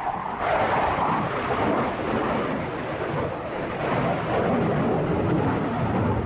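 Jet fighter engine roar, a steady rumbling noise with no clear pitch that grows a little about half a second in.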